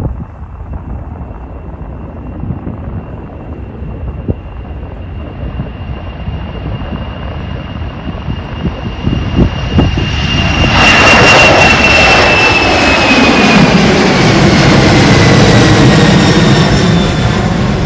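Jet airliner taking off: engine noise with a high, steady fan whine builds up and turns loud about ten seconds in as the plane goes past, then the whine slides down in pitch as it moves away.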